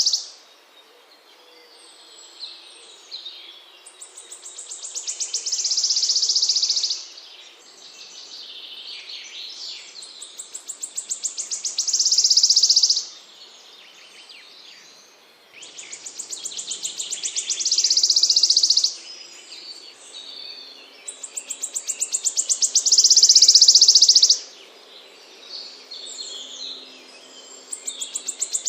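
A small songbird repeating one song, a high, rapid trill that grows louder for about three seconds and then stops abruptly. It comes about every six seconds, with softer chirps between the trills.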